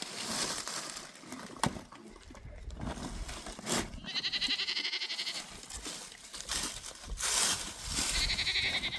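A goat bleating twice: a quavering call about four seconds in, and a shorter one near the end.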